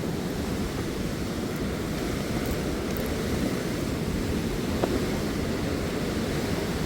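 Steady rushing of whitewater from the Waikato River's rapids at Huka Falls, a deep, even wash of fast-flowing water.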